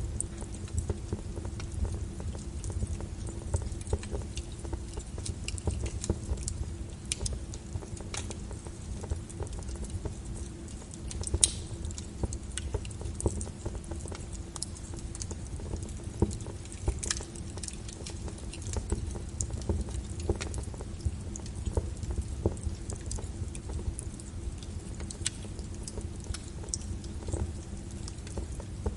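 Wood fire crackling: irregular sharp pops and snaps over a steady low rumble of burning, with one louder pop about eleven seconds in.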